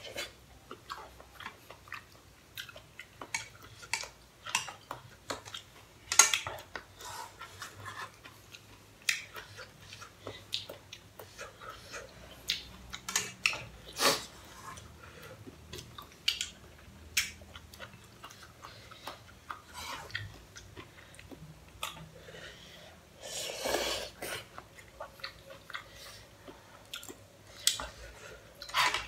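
Two people eating pasta carbonara: chewing and slurping noodles in a run of irregular wet smacks, with now and then a sharper click of chopsticks or a fork against the pot.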